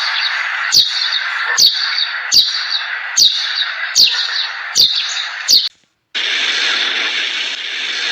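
A bird's short, sharp falling chirp, repeated seven times at an even pace of about one every 0.8 s, over a steady hiss. It stops suddenly just before 6 s; after a brief silence a different steady hiss begins.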